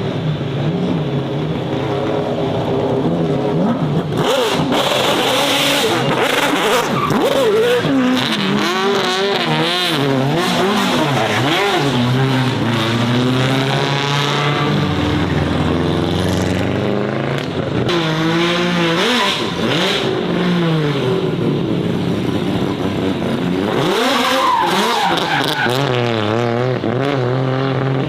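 Racing car engines revving hard and passing, their pitch climbing and dropping repeatedly with throttle and gearchanges. Several engines often overlap.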